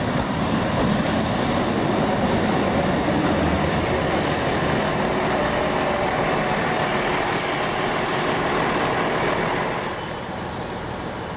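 Diesel passenger train running through the station with a steady rumble of engine and wheels and a few brief high hisses. It eases off about ten seconds in.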